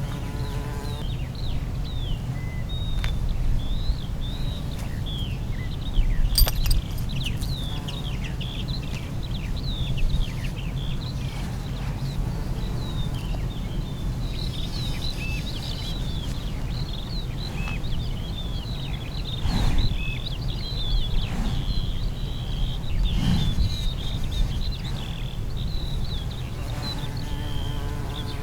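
Many small birds chirping and twittering continuously in short rapid calls, over a steady low rumble. A sharp click about six seconds in and a couple of low thumps later on.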